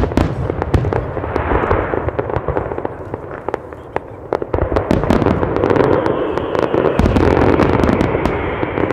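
Fireworks going off: rapid crackling and many sharp bangs over a dense rumble, growing louder and busier about halfway through, with a faint high whistle slowly falling in pitch in the second half.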